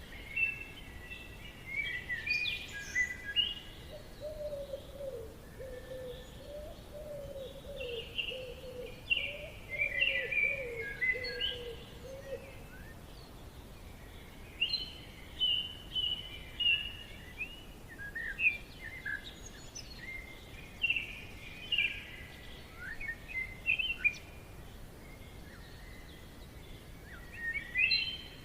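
Forest birdsong: birds chirping and trilling in short, repeated phrases, with a lower warbling call from about four to twelve seconds in, over a faint steady background hiss.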